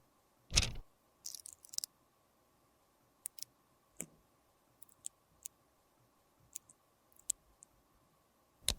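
Scattered sharp clicks and taps from small objects being handled, with a brief crackly scratching about a second in. There is a knock just after the start and the loudest click near the end.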